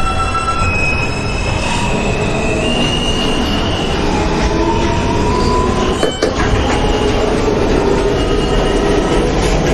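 NYC subway J train running along the track, heard from inside the car: a steady rumble under several high, drawn-out wheel squeals that slide in pitch. A sharp click comes about six seconds in.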